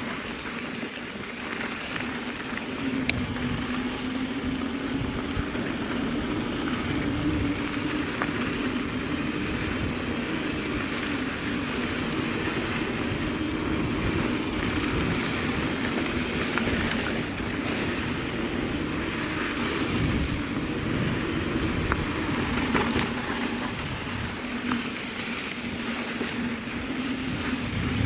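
Mountain bike riding a dirt trail: steady rolling tyre and drivetrain noise with small rattles and clicks, and wind on the microphone.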